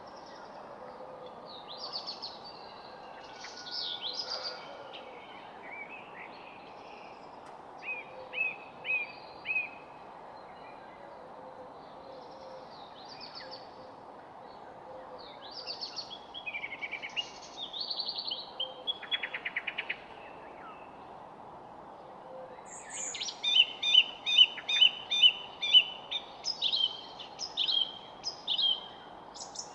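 Wild birds singing: scattered chirps, whistled phrases and short trills, then a fast run of loud repeated notes in the last quarter, over a steady background hiss.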